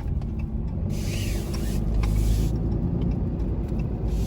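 Vehicle engine and road rumble heard from inside the cab, with a hiss across the highs from about one to two and a half seconds in.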